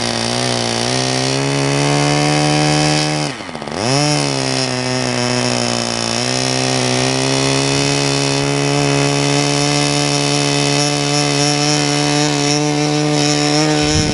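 Small two-stroke glow engine of a .10-size RC model airplane running at steady high speed with a buzzing note. About three seconds in its pitch briefly sags and picks back up. It cuts off suddenly at the very end.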